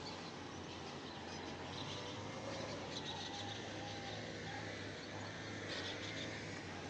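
Faint bird chirps over a steady background hum, with short spells of chirping around the middle and near the end.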